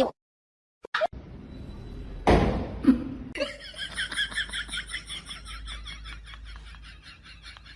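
A person laughing in a fast run of high-pitched giggles, about five a second, beginning about three seconds in after a short gap of silence and a brief burst of noise.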